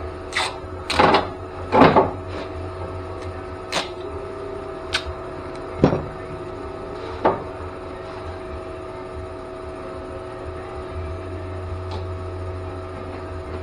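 About seven sharp knocks and clunks in the first seven seconds or so, then only a steady hum.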